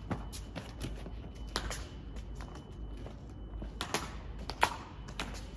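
A series of irregular light clicks and taps, a few of them sharper, about one and a half, four and four and a half seconds in.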